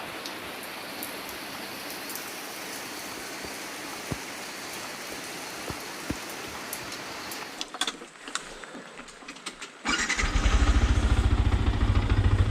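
Steady hiss of rain with scattered drips and clicks, then about ten seconds in a Yamaha MT-15's 155 cc single-cylinder engine starts and settles into a loud, steady idle.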